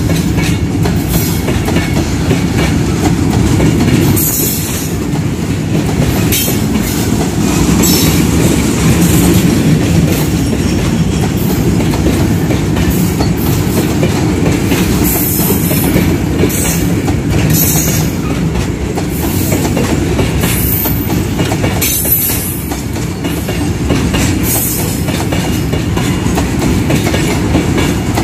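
Loaded freight train of oil tank wagons rolling past on departure, a continuous rumble of wheels with repeated irregular clacks over the rail joints.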